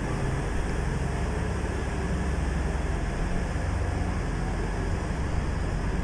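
Grand Central Class 180 diesel multiple unit's engines running with a steady low rumble.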